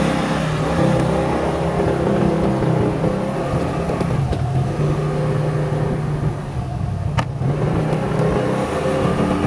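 A motor vehicle's engine running steadily under road and wind noise while on the move, its pitch drifting slightly up and down. A single sharp click about seven seconds in.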